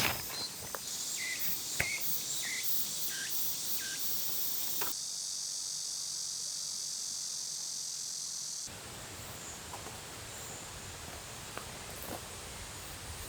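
Steady high-pitched chorus of insects, which changes abruptly about five seconds in and drops away about nine seconds in, leaving fainter even background noise.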